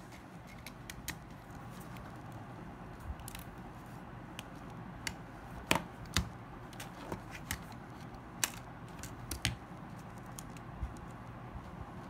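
Irregular small clicks and taps of a smartphone's parts being handled and fitted during repair, with the loudest click a little past halfway, over a faint steady hum.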